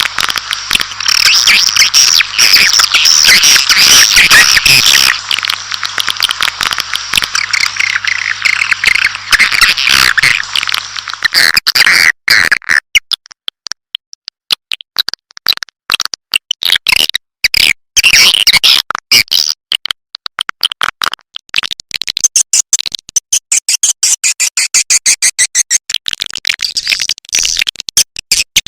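Recorded edible-nest swiftlet calls used as a lure sound: a dense, loud twittering of chirps for about the first eleven seconds, then rapid trains of sharp clicks with scattered chirps to the end.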